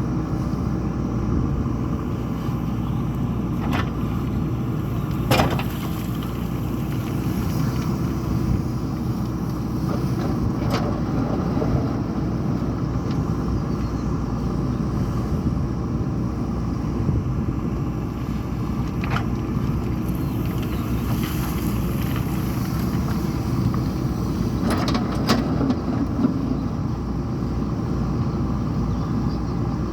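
JCB 3DX backhoe loader's diesel engine running steadily while the machine works, with a few sharp knocks scattered through.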